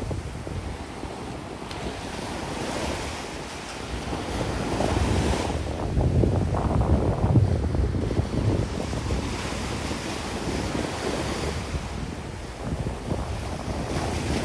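Sea waves washing onto a sandy beach, mixed with strong gusty wind buffeting the microphone; the rumble swells for a few seconds near the middle.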